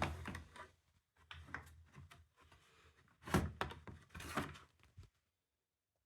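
Several irregular thunks and rattles in a small room, in three bursts, stopping about five seconds in.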